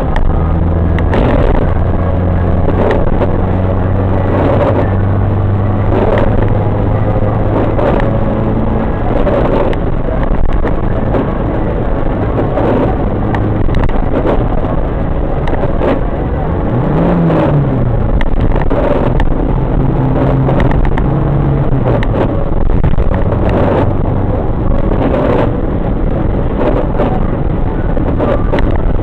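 Car driving on a motorway: steady engine and road noise, with scattered short clicks and a brief rise and fall in engine pitch about halfway through.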